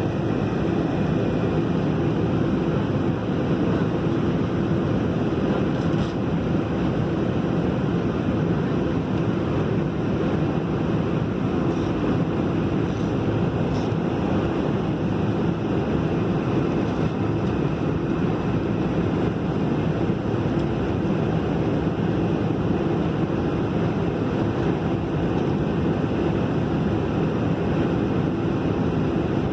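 Jet airliner's engines running, a steady even rushing noise with no rise or fall in pitch.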